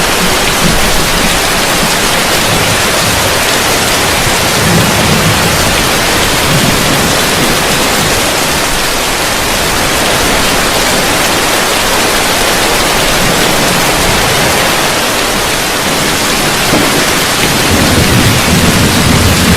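Heavy rain falling on a roof, a steady loud hiss, with low rumbles of thunder now and then and a longer rumble building near the end.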